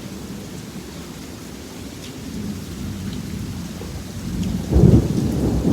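Thunder following a lightning flash. A low rumble builds and peaks in a loud boom about five seconds in, over steady rain.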